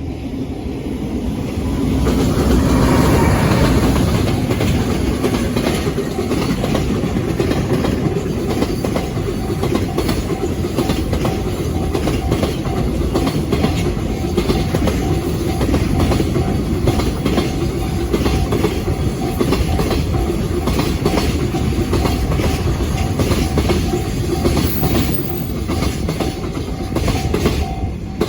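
Container freight train passing at speed. It is loudest as the head of the train goes by, about three seconds in, then a long string of container wagons follows with a steady clickety-clack of wheels over rail joints.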